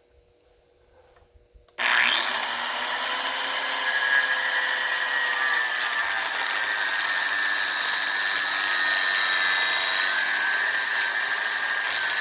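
Angle grinder with a cutoff wheel starting up about two seconds in with a quick rising whine, then running steadily as it cuts a cross slit into the head of a truck frame rivet.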